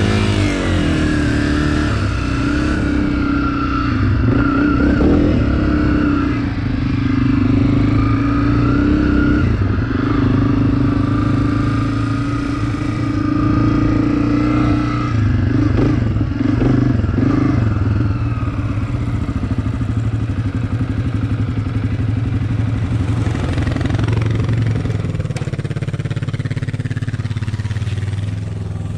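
Off-road vehicle engine running under throttle while riding, its pitch rising and falling a little; it eases to a lower, steadier note over the last few seconds.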